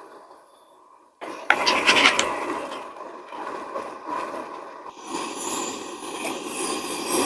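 A utensil scraping and stirring in a cooking pot of ramen. It starts suddenly about a second in, after a brief quieter moment, and runs on unevenly.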